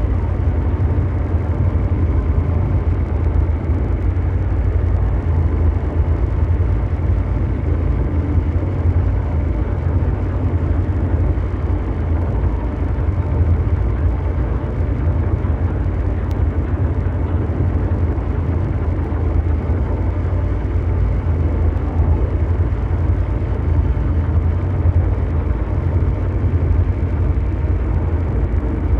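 Continuous mechanical drone ambience: a steady, deep rumble of brown-noise-like hiss, strongest in the bass, with no change in level or pitch.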